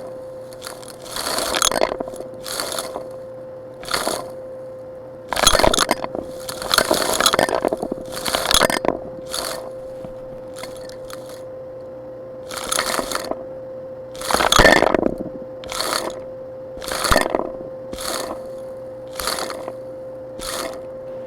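Rocky, crumbly material being crushed and scraped with a tool: a run of irregular crunching, scraping strokes, roughly one a second, over a steady faint hum.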